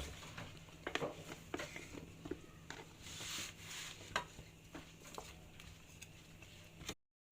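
Seasoned potato pieces being laid by hand into a baking tray: faint, irregular soft taps and clicks with a light wet shuffling between them. The sound cuts to silence just before the end.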